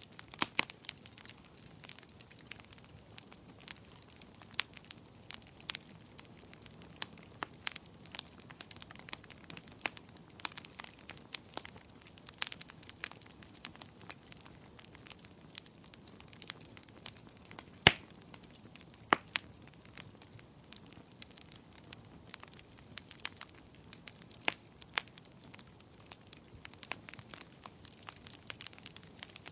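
Wood fire crackling in a fireplace: irregular sharp pops and snaps over a faint low hiss, with one louder pop about eighteen seconds in.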